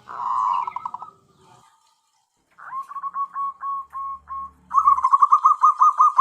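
Zebra dove (perkutut) cooing. A short burst of notes at the start, then a run of short, even cooing notes from about two and a half seconds in, which becomes a faster, louder run near the end.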